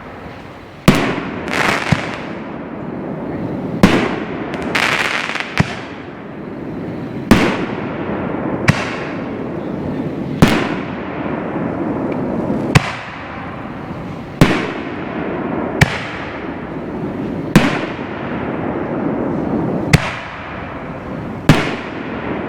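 Five-inch aerial firework canister shells going off one after another, about a dozen sharp booming reports spaced a second and a half to two and a half seconds apart. Each is followed by a long rolling echo that fades before the next.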